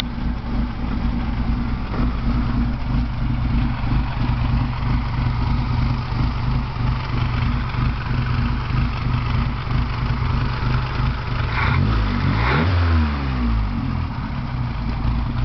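Car engine idling steadily, with a brief rev about twelve seconds in.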